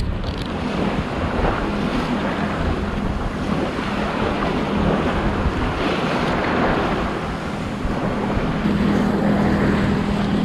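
Wind on the microphone and waves washing around a sailboat under way, over the steady low hum of its motor ticking over at about 1000 RPM.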